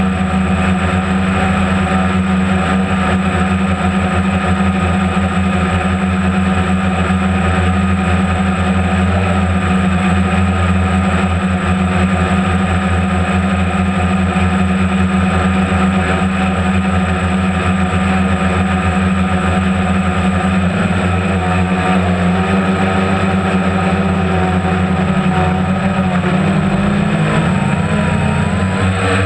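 Boat engine running steadily at low speed with a deep, even hum; its pitch wavers slightly near the end.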